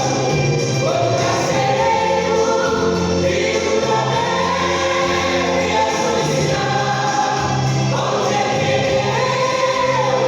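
A vocal group singing a Christian gospel song together over instrumental backing, with long held notes and a steady bass line.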